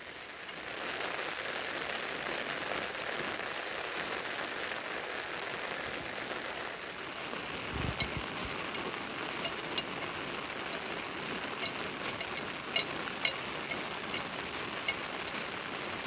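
Steady rain falling, with sharp taps of single heavy drops landing close by from about halfway through and a brief low thump just before them.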